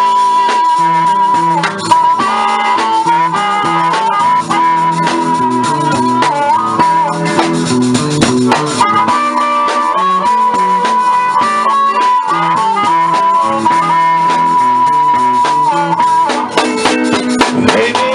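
Live blues instrumental: a harmonica holding long, wavering notes over a repeating guitar accompaniment.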